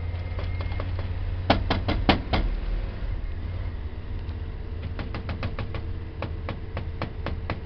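Carbureted 1984 Dodge van engine idling just after a cold start. A few sharp knocks come about a second and a half in, and a run of quick, light ticks starts near the end.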